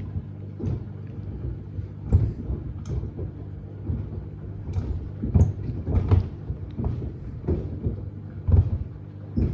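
Samsung WD70T4047CE washing machine tumbling a load of sneakers: a steady motor hum with irregular thumps as the shoes knock against the drum, about one a second.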